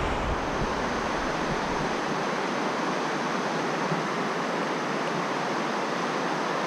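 Steady rush of flowing stream water, an even hiss with no change throughout.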